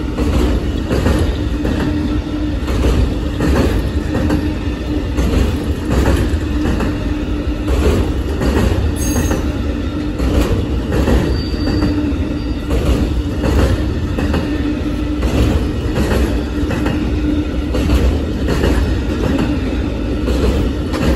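Amtrak Auto Train's bi-level autorack cars rolling past, wheels clicking over rail joints in a continuous rumbling stream, with a low whine from the wheels that comes and goes.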